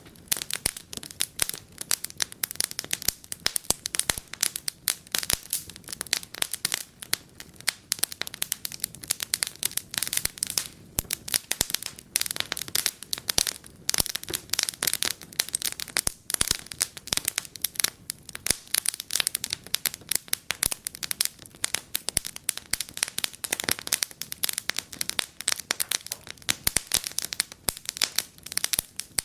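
Wood fire in a fireplace crackling and popping steadily, with many sharp irregular snaps.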